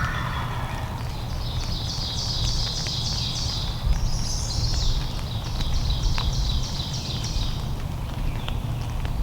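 A small songbird sings two rapid trilled phrases of short, high repeated notes, one after the other, over a steady low rumble.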